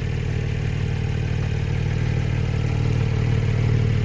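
Porsche 718 Boxster Spyder's naturally aspirated 4.0-litre flat-six idling steadily, getting a little louder near the end.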